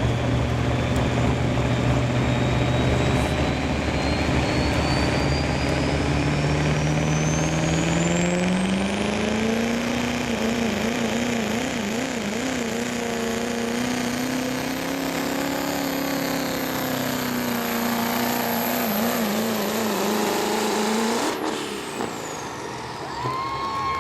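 Turbocharged diesel pickup engine at full throttle under heavy load, its note climbing over the first ten seconds while a turbo whistle rises high above it. The engine note then wavers and holds before dropping off near the end as the throttle is let off.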